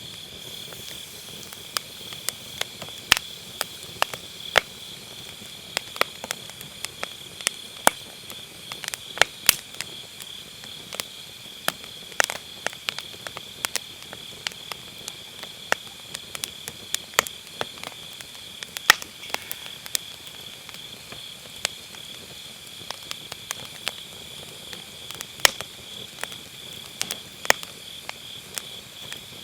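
Firewood burning in a round fire pit, crackling with many irregular sharp pops and snaps, over a steady high chirring chorus of autumn grass insects.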